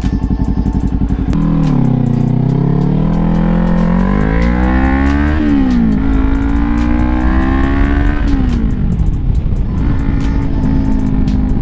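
2018 Kawasaki Ninja 400's parallel-twin engine under way, climbing in pitch as it accelerates, with a sharp drop and recovery about five seconds in as it shifts up a gear. Around eight seconds in the pitch falls as it eases off, then holds steady.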